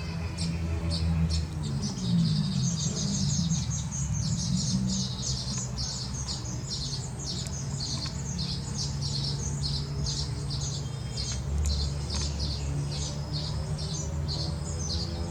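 A flock of small birds chirping together in a dense, rapid chatter of high chirps, over a steady low rumble.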